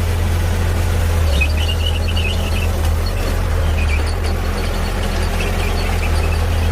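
Heavy diesel engine of a bulldozer running steadily with a deep, constant drone, with bursts of high-pitched squeaking over it, first about a second in and again in the second half.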